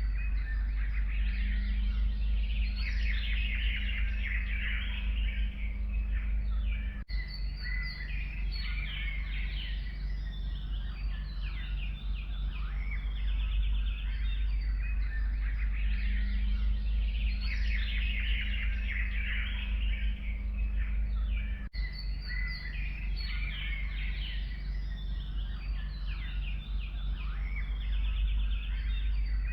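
Several forest songbirds chirping and singing at once, dense and continuous, over a steady low rumble. The whole sound drops out for an instant about seven seconds in and again about twenty-two seconds in.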